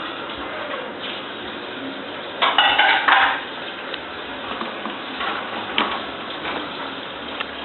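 Light clinks and taps with a short, louder burst of chatter about two and a half seconds in, from a pet parrot.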